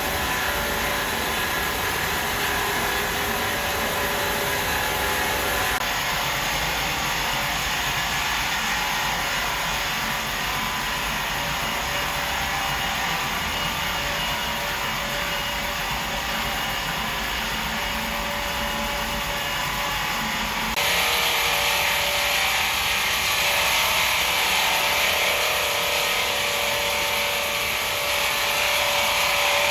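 Sawmill saw running steadily through timber, a continuous machine noise that shifts abruptly twice and grows louder with a stronger hiss in the last third.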